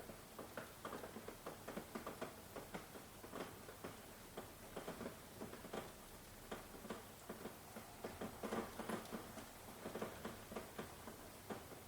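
Rain falling, heard as many close, irregular drop hits, several a second, over a soft steady hiss.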